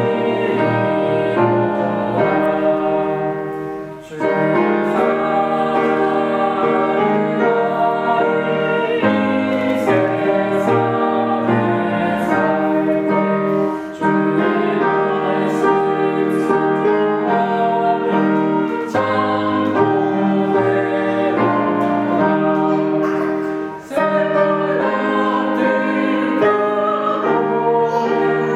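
People singing a hymn together to piano accompaniment. The singing and piano stop briefly between phrases three times, about every ten seconds.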